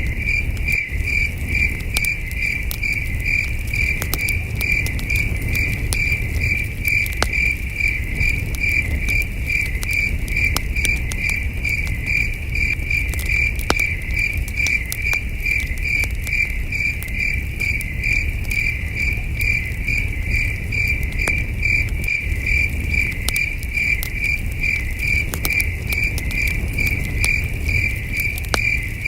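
Crickets chirping steadily, about two even chirps a second, over the crackle and scattered pops of a campfire and a low rumble.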